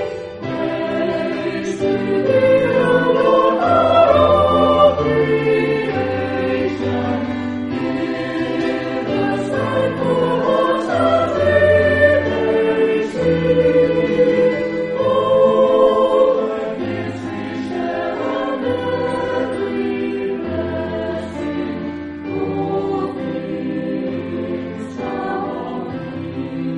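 Church choir singing in parts, with held notes changing about once a second over a steady low bass line.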